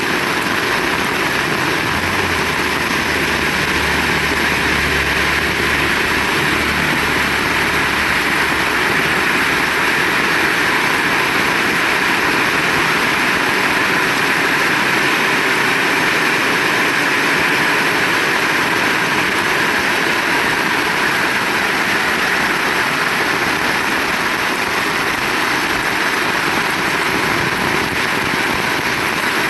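Heavy rain pouring steadily, a dense even hiss. A low rumble runs underneath for several seconds near the start, then fades out.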